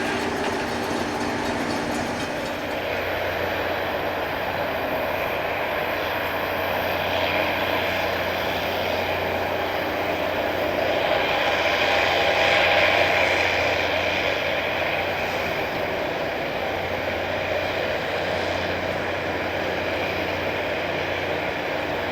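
Rail grinder at work on the track: a steady roar of grinding stones on the rail over a constant diesel engine hum, growing louder about halfway through and then easing as the machine passes.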